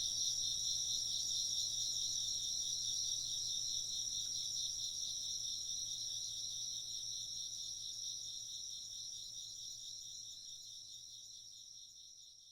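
Chorus of crickets trilling steadily in a high, pulsing chorus, fading out slowly over the whole stretch.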